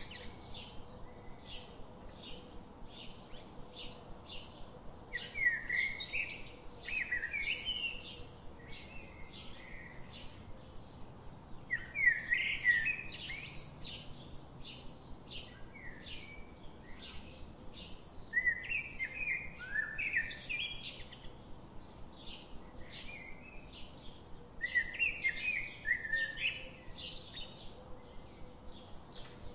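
Birdsong: short high chirps repeated about twice a second, with louder bursts of warbling song every six seconds or so.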